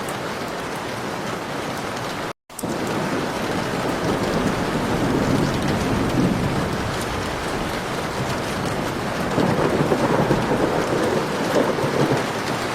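Heavy rain falling steadily in a thunderstorm, with rolling thunder rumbling and swelling twice in the second half. The sound cuts out completely for a moment about two seconds in.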